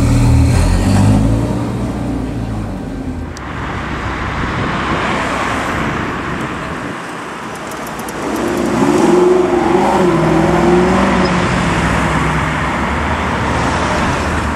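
A Ferrari Portofino's twin-turbo V8 running with a low, steady note. After a cut about three seconds in, a Lexus LC pulls away and accelerates, its engine note rising and falling from about eight seconds in.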